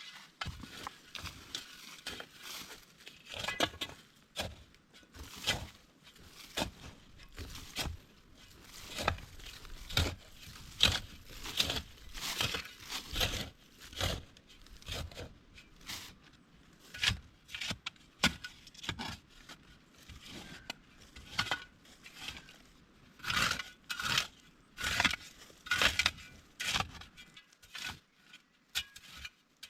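Irregular strokes of a hand tool digging and scraping into soil, leaves and small stones, one or two a second, some with a short metallic clink, as the ground is cleared for a shelter base.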